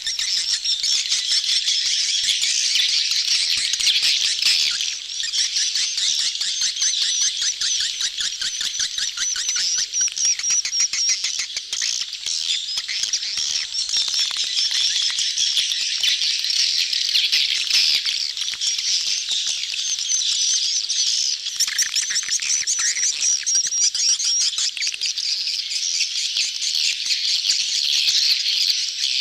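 Dense chorus of edible-nest swiftlets, many rapid high chirps and twitters overlapping without a break. It is a swiftlet lure recording of a crowded colony giving mating calls, the kind played to draw swiftlets into a nesting house.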